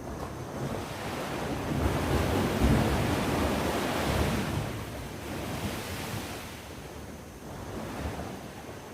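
Sea waves breaking on the shore: one wave swells up, peaks about two to four seconds in, and washes back out.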